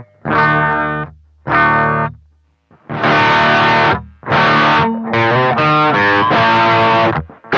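Distorted electric guitar playing a riff of struck chords through an effects pedal, several chords cut short between strikes.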